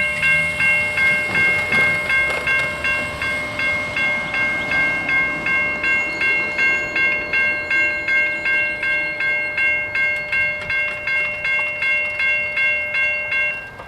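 Railroad grade crossing bell ringing fast and evenly, about three strikes a second, then stopping abruptly near the end. Train wheels click over rail joints beneath it.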